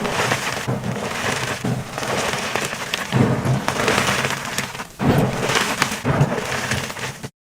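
Blocks of dyed gym chalk being crushed, crunching and crumbling with a dense crackle and several louder surges of breaking. The sound cuts off suddenly near the end.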